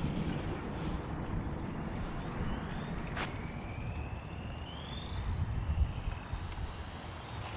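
Brushless electric motor of a 6S RC car (ARRMA Talion) running flat out, its whine climbing steadily in pitch through the second half as the car accelerates, over a low rumble. A single sharp click about three seconds in.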